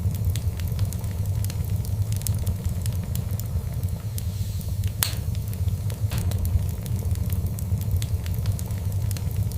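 Wood fire crackling with frequent small pops over a steady low rumble, and one sharper, louder pop about five seconds in.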